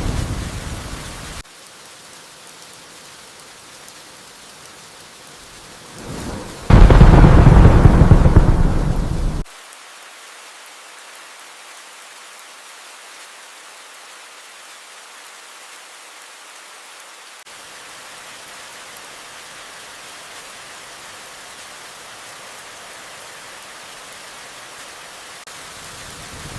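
Steady rain hiss with thunder: a rumble fading out about a second in, then a loud thunderclap about seven seconds in that rumbles for nearly three seconds and cuts off abruptly, and another rumble building near the end.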